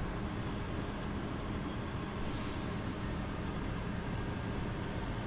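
Steady low vehicle rumble, with a brief hiss about two seconds in.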